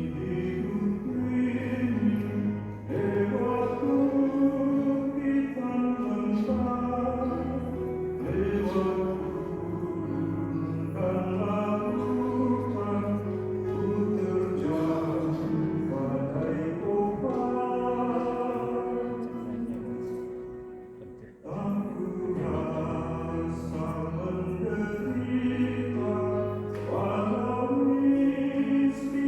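Choir singing a church song over steady sustained bass notes; the music dips briefly a little after twenty seconds, then resumes.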